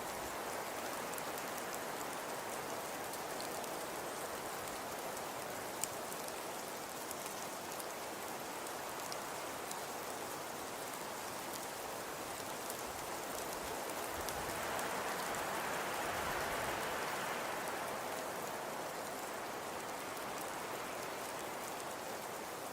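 Fireplace crackling: a steady soft hiss dotted with small pops and crackles, one sharper pop about six seconds in. The hiss swells briefly a little past the middle.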